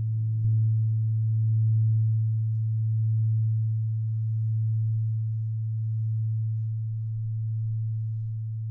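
Singing bowl ringing with a low, pure, sustained tone. It is struck again about half a second in, then hums on with slow swells in loudness.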